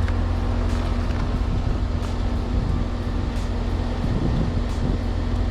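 Outdoor condensing unit of an Amana split-system air conditioner running after a restart: its compressor and fan give a steady, low hum.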